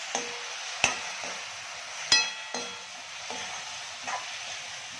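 Capsicum and sauces sizzling as they fry in a hot pan, stirred with a spatula that knocks against the pan every second or so. The loudest knock, about two seconds in, leaves the pan ringing briefly.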